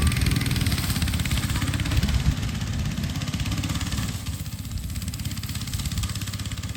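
A 1983 Toyota Corolla KE70's four-cylinder engine running. It is louder for the first four seconds, then drops back to a lower, steadier run.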